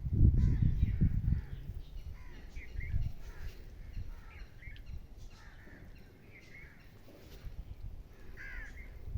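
Birds calling over and over in short harsh calls, with a loud low rumble in the first second or so and again at the end.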